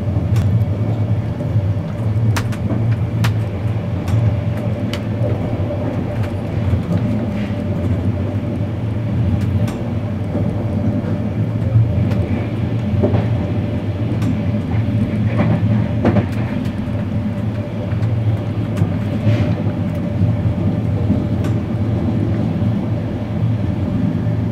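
A type 136A passenger coach running at speed, heard from inside a compartment: a steady low rumble with a faint steady hum and scattered sharp clicks from the wheels on the track.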